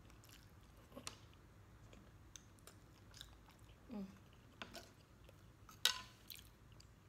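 A woman chewing a mouthful of rice and sisig, close to the microphone, with faint small mouth clicks and smacks and one sharper click about six seconds in.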